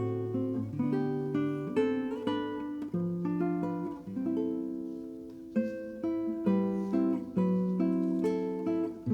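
Background music: acoustic guitar playing plucked chords and single notes at an unhurried pace, each one ringing out and fading before the next.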